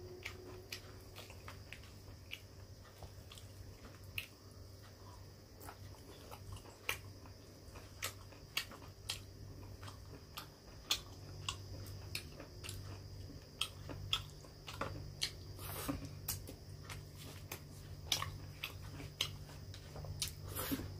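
Close-up chewing and mouth smacking by a man eating rice and curry by hand, with frequent short sharp clicks, over a steady low hum.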